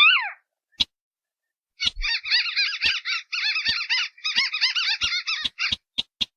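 Recorded crake calls from a bird-lure mix of sintar beker and white-browed crake: a single downward-sliding nasal note at the start, then from about two seconds a fast chattering run of rising-and-falling notes lasting about four seconds. Sharp clicks come in between the calls.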